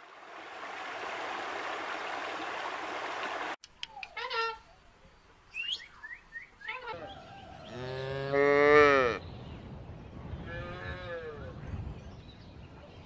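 A cow mooing: one loud, long moo about eight seconds in, followed by a fainter one. Before it, a steady hiss cuts off suddenly, then a few short faint calls.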